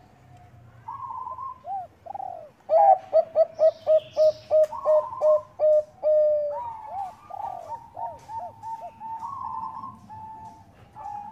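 Zebra doves (perkutut bangkok) cooing. After a few opening coos comes a rapid, even run of about a dozen short staccato notes, three or four a second, closing on a longer note. More dipping coos and held notes follow.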